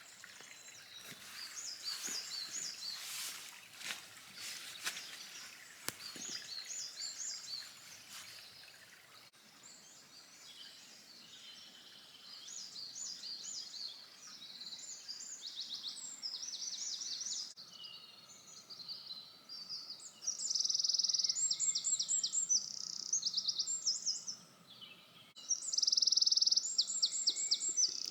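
Songbirds singing: repeated short, high phrases that grow louder, with dense trills in the last third. Faint scattered clicks or crackles in the first several seconds.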